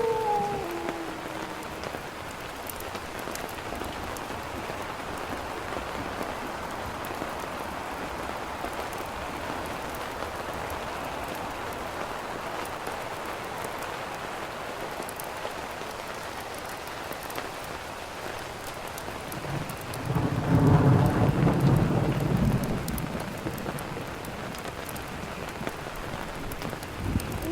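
Steady rain falling, with a low roll of thunder about twenty seconds in that lasts a few seconds.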